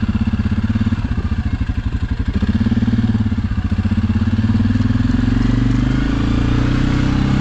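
Suzuki KingQuad ATV's single-cylinder engine running at low speed with an even, fast throb. From about halfway through it smooths out and settles a little higher as it pulls steadily.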